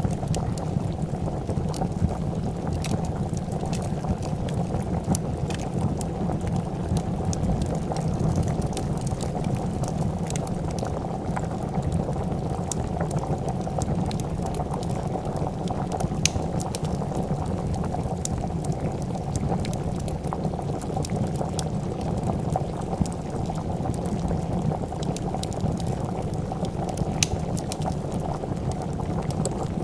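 Pot of soup boiling with steady, dense bubbling, over a wood fire crackling with scattered sharp pops.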